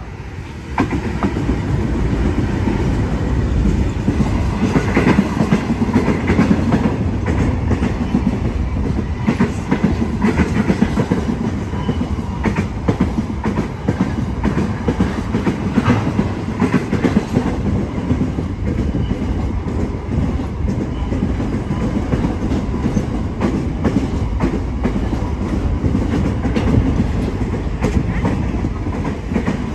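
Diesel-hauled freight train of container wagons passing close by: a steady heavy rumble with a clickety-clack of wheels over rail joints. It gets loud about a second in as the Pacific National diesel locomotive goes underneath, and the wagons keep rolling past after it.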